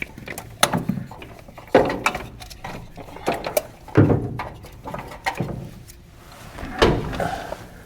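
Two wrenches clinking and knocking against metal in irregular sharp strikes, working loose an oil line fitting on an engine. The heaviest knocks come about two, four and seven seconds in.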